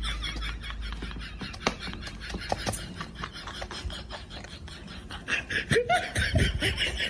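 A person laughing in short bursts among scattered clicks and knocks, the laughter strongest near the end.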